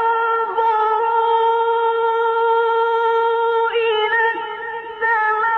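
Male Quran reciter holding one long, high, steady note in melodic tajweed recitation, with a brief pitch ornament near the middle and a slight fade before the note swells again.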